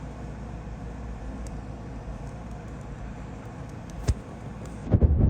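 Steady low outdoor rumble, like distant traffic or wind, with a sharp knock about four seconds in and a cluster of loud thumps near the end.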